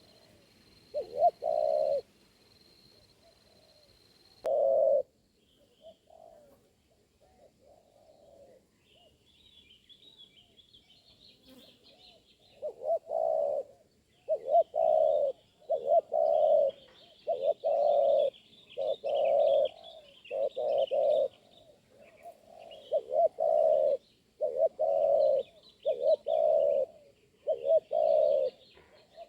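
Spotted dove cooing: a couple of separate coos in the first few seconds, then a long run of short, evenly repeated coos, about one a second, from roughly the middle on. Faint chirping of small birds runs behind it.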